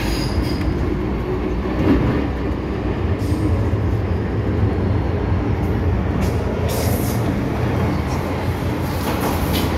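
MTR M-Train (Metro-Cammell electric multiple unit) running at speed through the Island Line tunnel, heard from inside the carriage: a steady rumble of wheels and motors with a few light clicks.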